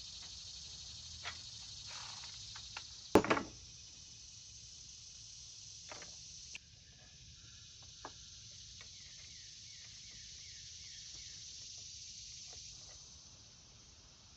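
Faint outdoor ambience with a steady high insect hiss, a row of short repeated chirps in the middle, scattered light clicks, and one sharp knock about three seconds in.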